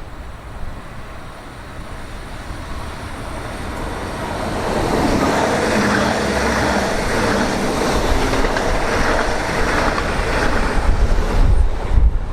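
A train passing through the station, growing louder from about four seconds in as it comes by, with a heavy low rumble near the end.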